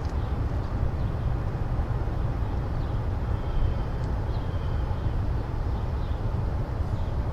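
Freight train rolling past at track speed: a steady low rumble of wheels on rail, with a few faint short high squeals.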